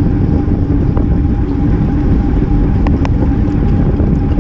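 Wind rushing over an action camera's microphone while riding a road bike in a race, with a steady hum from the moving bike and a few light clicks.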